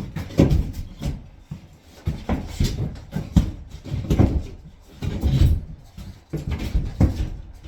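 Irregular thumps, knocks and scraping from handling and fitting a drywall sheet against the framing, about eight dull bumps spread unevenly.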